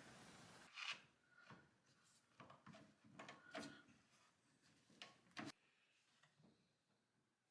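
Faint scattered clicks and light knocks, about a dozen over five seconds, then near silence.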